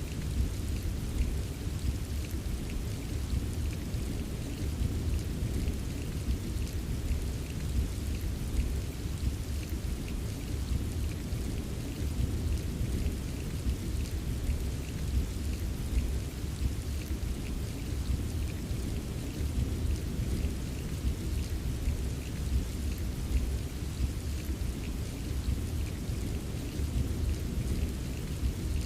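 Steady rain ambience: an even wash of rainfall with a constant low rumble underneath and faint scattered drop ticks, unchanging throughout.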